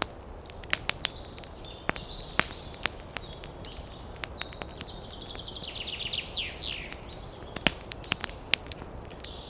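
Campfire crackling, with frequent sharp pops and snaps of burning wood, while small birds chirp; about six seconds in, one bird gives a quick run of notes falling in pitch.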